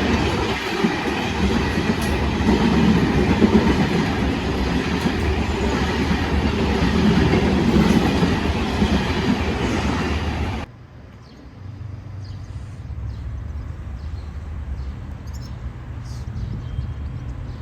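Express passenger train of French-built coaches rushing past at speed, the wheels and cars making a loud, dense rush. The sound cuts off abruptly about ten seconds in, leaving a quieter background with a low hum and a few faint chirps.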